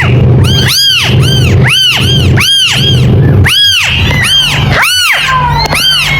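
Kitten mewing over and over, high thin calls that each rise and fall in pitch, about two a second, over a steady low hum.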